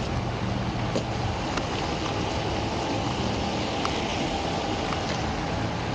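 Steady low engine hum of a vehicle idling, under an even wash of road or wind noise, with a few faint ticks.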